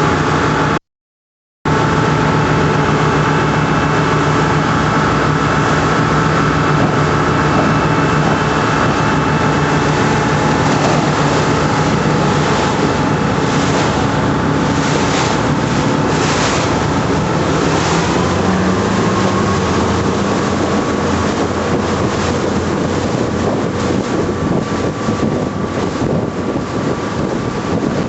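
Motor patrol boat's engines running steadily, with wind buffeting the microphone and rushing water around it. The engine note shifts about two-thirds of the way through, and the sound cuts out completely for under a second about a second in.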